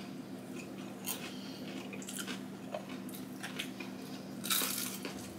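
Crunching bites and chewing of fried turon, spring rolls filled with banana and jackfruit, in a few short crackly crunches with the loudest near the end. A steady low hum lies underneath.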